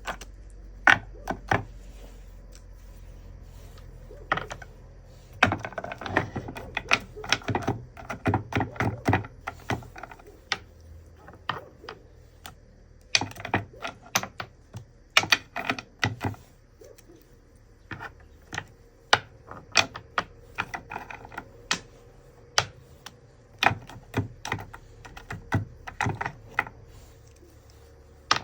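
A common raven making irregular sharp clicks and taps, in quick clusters with short pauses between.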